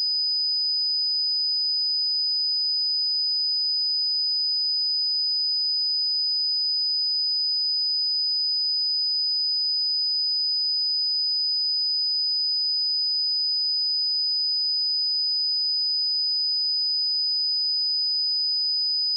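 A pure electronic sine-wave test tone at 4988 Hz, a single steady high-pitched whistle held at constant level without change.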